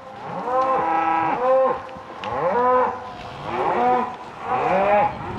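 A herd of cattle mooing, several cows and calves calling over one another in a near-continuous run of long, arching moos.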